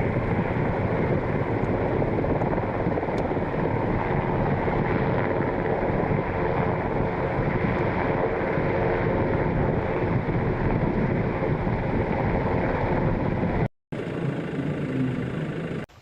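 Helicopter running, a loud steady rush of rotor and turbine noise with wind on the microphone, broken by a brief cut about 14 s in.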